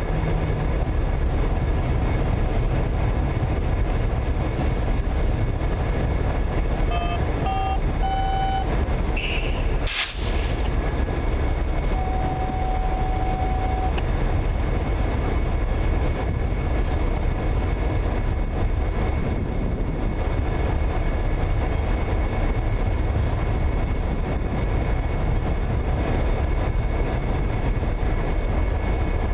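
Diesel locomotives running with a steady low rumble. A few short tones come around seven to eight seconds in, a sharp click at about ten seconds, and a single steady tone lasting about two seconds soon after.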